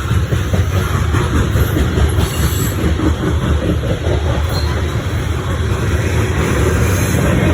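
CSX coal train's freight cars rolling past, a steady loud rumble of wheels on rail.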